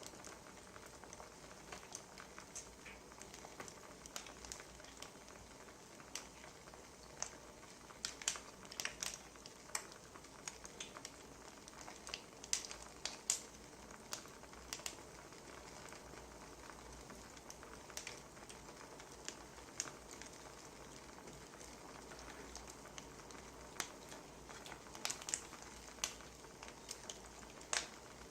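Wood fire crackling: irregular pops and snaps over a faint steady hiss, busiest about a third of the way in and again near the end.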